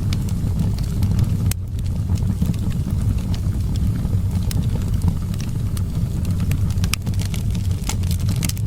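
Wood fire crackling, with frequent sharp pops scattered irregularly, over a steady low rumble of wind.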